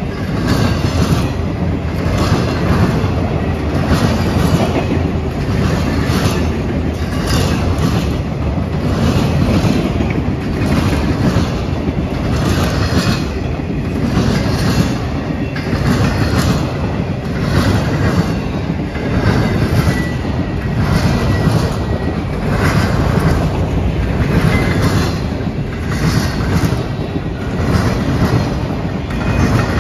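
Freight train of autorack cars rolling past: a steady rumble of steel wheels on rail, with a regular clickety-clack as the wheel sets cross rail joints. A faint, high wheel squeal comes in briefly about two-thirds of the way through.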